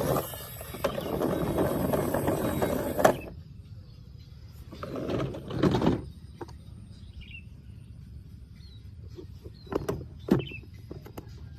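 Plastic toy vehicles being handled, rattling and scraping in two bursts, with a few sharp clicks near the end.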